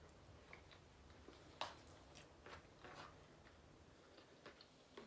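Near silence with faint, scattered mouth clicks of someone chewing a bowl of food, one slightly sharper click about a second and a half in.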